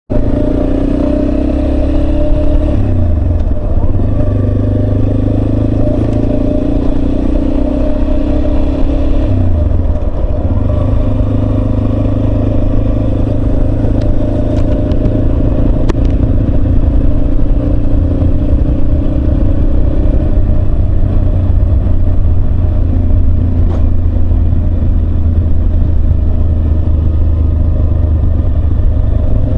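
Yamaha Serow 250's single-cylinder engine running steadily under way, its note dipping and picking up again twice, about three and ten seconds in.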